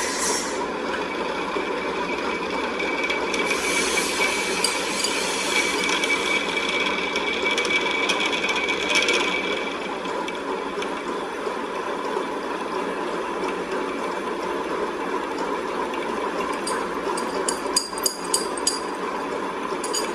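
A workshop machine running steadily. For several seconds in the first half it adds a higher hiss and whine. Near the end come a few sharp taps.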